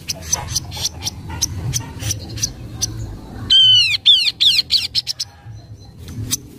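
Kaso-kaso bird calls on a lure recording: sharp chip notes repeated every few tenths of a second, broken about halfway by a loud quick run of arched, down-slurred whistles.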